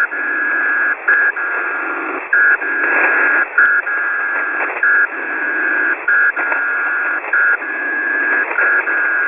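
Shortwave radio signal heard through a receiver's hiss: a tone around 1.5 kHz keyed on and off in a steady repeating short-long pattern, about once a second, typical of a keyed telegraphy or beacon signal.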